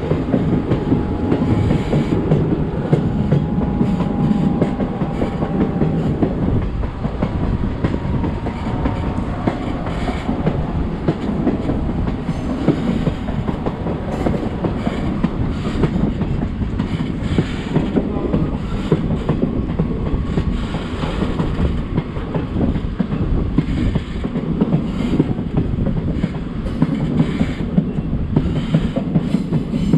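The 16102 Kollam–Chennai Express running along the track: a steady rumble from the coaches with scattered clicks of the wheels over rail joints. A faint high squeal sounds over the first ten seconds or so.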